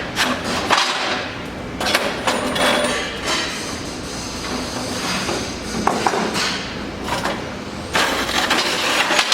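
Steel wood-stove parts being handled and moved, with a series of clanks and knocks and some scraping between them, busiest at the start and again near the end.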